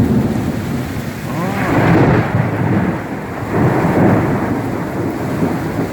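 Rolling thunder rumbling over steady heavy rain, swelling twice.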